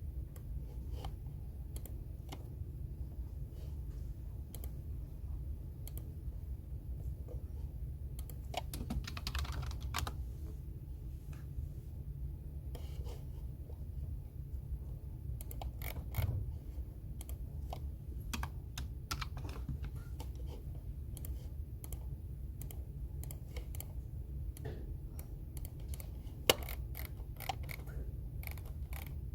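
Computer keyboard typing: irregular key clicks in flurries, with one sharper, louder click near the end, over a steady low hum.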